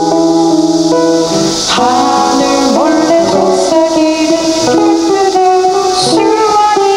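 A live band playing a song, with guitar prominent.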